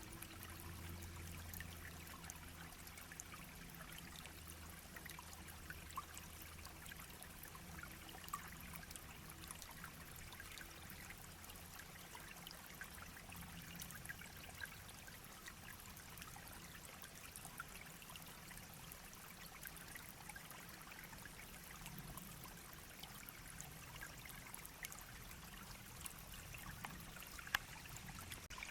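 Shallow brook babbling and trickling steadily and faintly, with many small splashes and drips scattered through.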